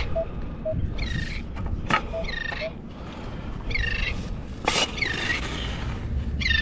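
A bird's short, high, curling call, repeated about every second and a half over a low rumble, with two sharp knocks, one about two seconds in and one near five seconds.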